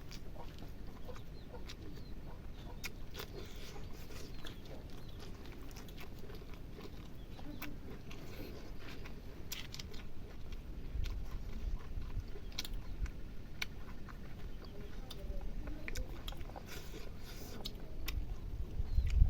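Close-up eating sounds: chewing, with irregular wet clicks and smacks of the mouth over a low rumble.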